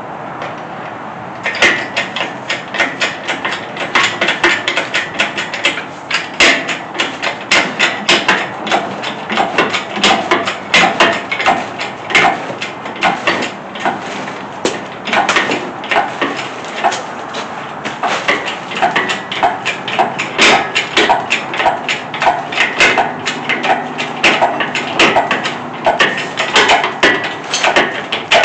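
Rapid metallic clicking and clanking, several sharp strokes a second with short ringing, starting about a second and a half in and going on steadily: lifting gear being worked to raise an engine block.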